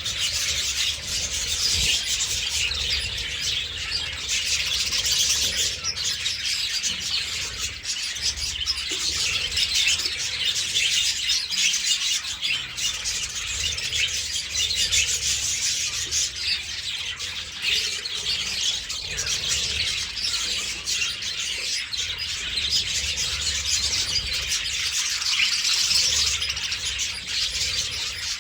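A flock of budgerigars chattering and chirping nonstop, many birds' warbles and chirps overlapping.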